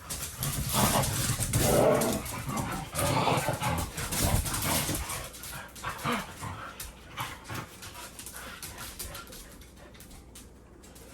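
Dogs growling and barking in rough play, loudest over the first five seconds, then dying down into scattered clicks and knocks.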